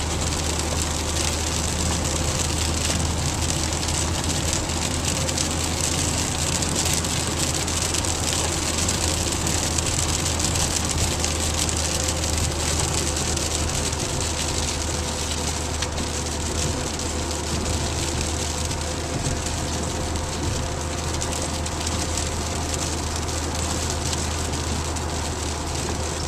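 Rain beating on a moving car's roof and windshield: a dense, steady hiss over the low, constant hum of the car on the road.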